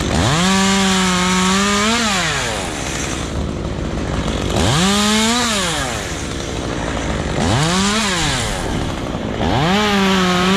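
Two-stroke chainsaw throttled up to full speed four times, each burst lasting a second or two with a quick rise and fall in pitch, dropping back to idle in between.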